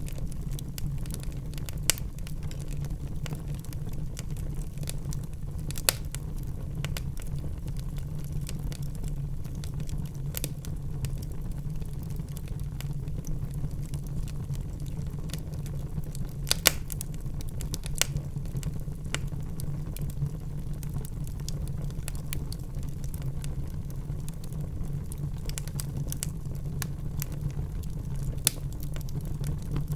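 Wood fire crackling in a fireplace: a steady low rumble of the burning with sharp pops and snaps every few seconds, a few of them louder than the rest.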